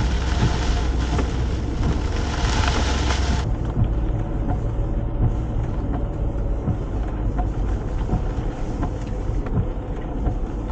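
Ford Bronco driving on a dirt trail: steady low engine and road rumble with a hiss over it. About three seconds in the hiss above drops away abruptly, leaving the low rumble with faint scattered ticks.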